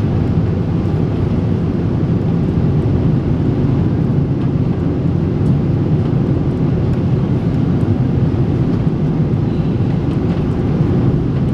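Steady low rumble of airliner cabin noise inside a Japan Airlines Boeing 777-300, engine and airflow noise with no change in level.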